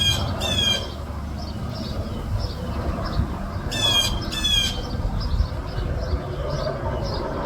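Blue jay giving harsh, squawking jay calls at a red-tailed hawk, in two quick pairs about four seconds apart: alarm calls mobbing a predator. A steady low rumble runs underneath.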